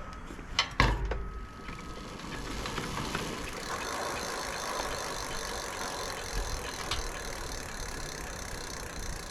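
E-bike rear wheel spinning freely after a brake caliper adjustment, a steady whir with a light rattle, checked for disc rotor rub. A couple of knocks about a second in as it is set going.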